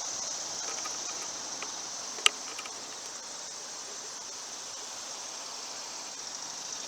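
Steady high-pitched trill of insects, such as crickets, with a single sharp click a little over two seconds in.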